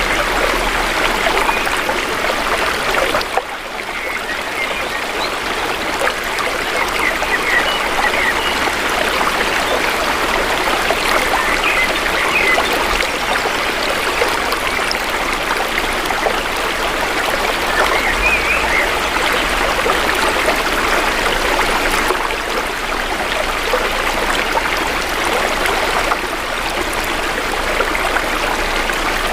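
Shallow river water flowing steadily, a continuous rush and trickle, with a brief dip in level about three and a half seconds in.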